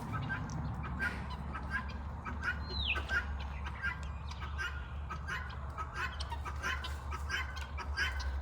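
Birds calling with many short, repeated chirps and a single falling whistle about three seconds in, over a low steady hum.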